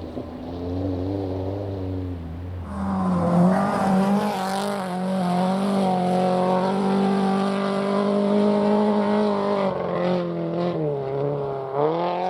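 Rally car engine running hard as the car comes close. The engine holds a high, fairly steady pitch for several seconds, eases off about ten seconds in, then revs up briefly again near the end.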